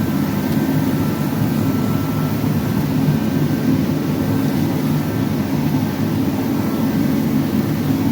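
A steady, loud low mechanical drone, unchanging throughout, with a faint high hum above it.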